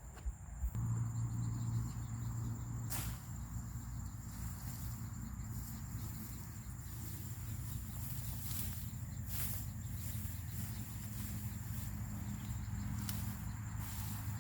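Crickets or other insects chirring in a thin steady high tone, over a low steady hum that comes in just under a second in. A few sharp clicks are heard, about three seconds in and again near nine and thirteen seconds.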